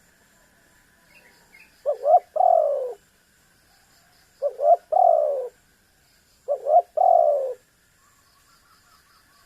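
Spotted dove (tekukur) cooing: three phrases about two and a half seconds apart, each two short notes followed by a longer falling coo. Faint chirping of small birds and a steady high tone sit behind it.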